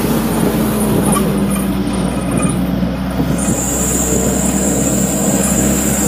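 Truck driving on a road: a steady, loud engine and road rumble.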